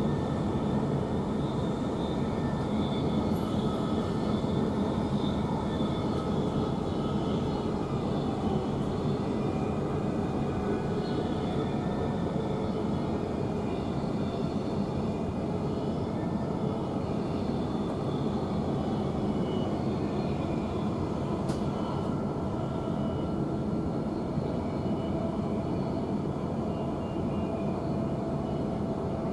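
Inside an electric suburban train running at speed: a steady rumble of wheels on the rails and rushing air, with faint high whining tones above it.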